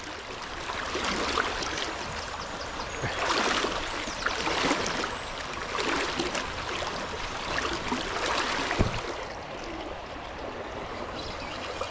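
Fast-flowing river water rushing, a steady noise that swells louder a few times around the middle.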